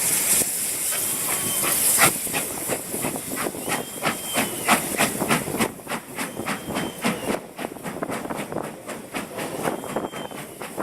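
Steam locomotive working: a loud hiss of steam for the first two seconds, then a steady run of exhaust chuffs, about three or four a second, growing fainter, with a few brief high squeals.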